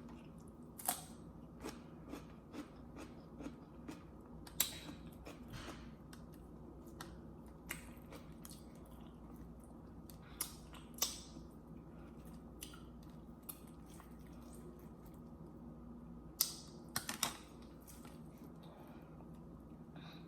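Faint eating sounds: a person chewing food, with scattered short clicks and taps, a few louder ones near the middle and about three quarters of the way in, over a steady low hum.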